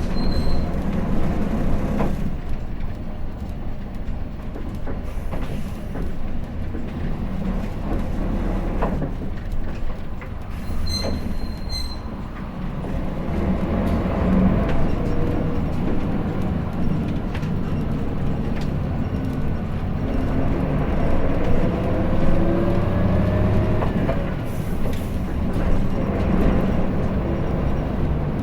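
Hino Blue Ribbon City diesel city bus running, heard from inside the passenger cabin: a steady low engine and body rumble. A few short high beeps come about eleven seconds in, and a faint rising whine near the end.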